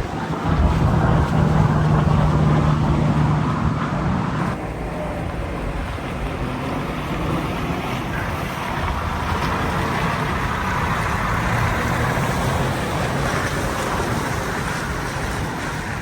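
Heavy truck driving past on the highway: a steady diesel engine drone for the first four and a half seconds, which changes abruptly to an even rush of tyre and road noise, with wind on the microphone.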